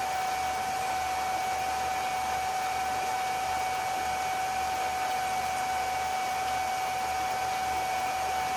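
Electric pump running steadily while draining a pool, a constant whine over a motor hum.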